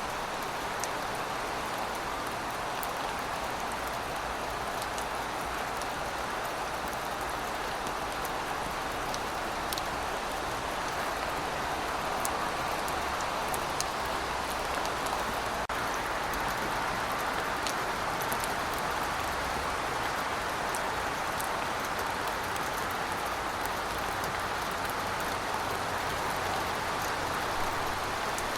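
Steady rainfall: an even hiss with scattered sharp ticks of single drops.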